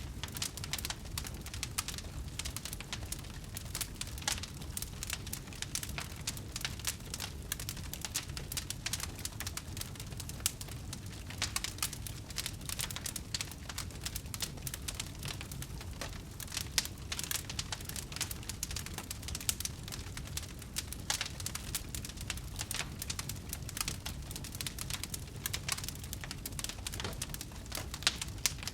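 Wood fire burning with dense, continuous crackling and popping over a low, steady rumble of the flames.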